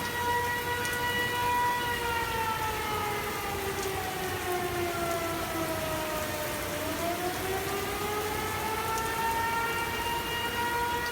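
Outdoor tornado warning siren sounding a steady tone. From about two seconds in, its pitch slowly falls for about five seconds, then rises back to the same steady pitch.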